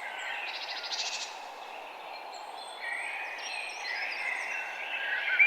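Several songbirds chirping and twittering, their calls overlapping over a steady background hiss, with a fast buzzy trill about a second in.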